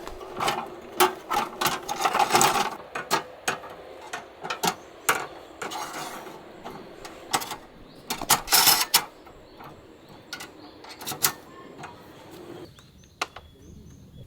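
Camping gear being handled and set out: an uneven run of clicks, knocks and clinks with a couple of brief rustles, dying down near the end.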